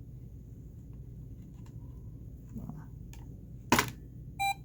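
A circuit-bent talking electronic toy's speaker gives a sharp pop about three-quarters of the way in over a low steady hum with faint clicks, then starts a short buzzy electronic beep near the end.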